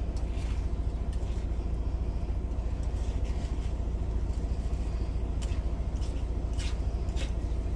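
Truck engine idling: a steady low rumble that pulses quickly and evenly, with a few faint crackles or clicks over it.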